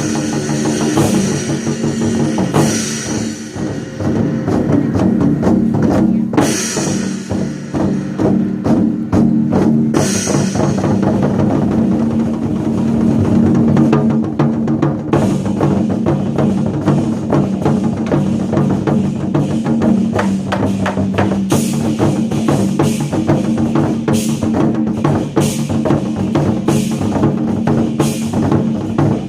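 Chinese war drums beaten in time over a recorded backing music track, the strikes growing denser and brighter in the last third.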